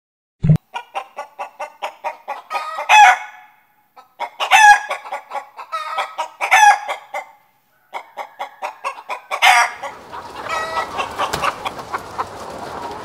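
A hen cackling: runs of quick clucks that build to a loud drawn-out squawk, three times over, with a short low thump just before the first run. In the last few seconds the cackling gives way to a fainter, steady background noise.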